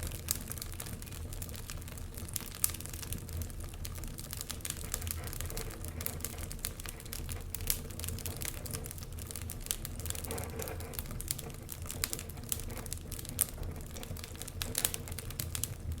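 Logs burning in a fireplace, crackling with irregular sharp pops over a steady low rumble.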